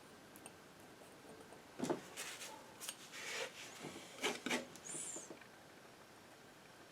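Painting knife scraping and tapping paint on, a cluster of short strokes and clicks from about two seconds in, with a brief high squeak near the end of them.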